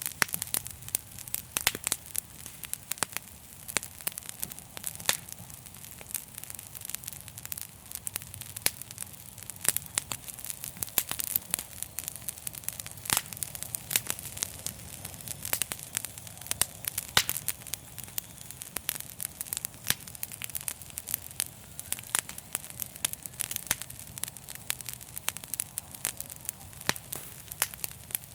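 Wood fire crackling: many irregular sharp pops and snaps of varying loudness over a steady hiss and a low rumble of the flames.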